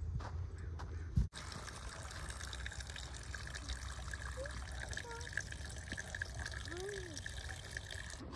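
A knock about a second in, then steady running and trickling water.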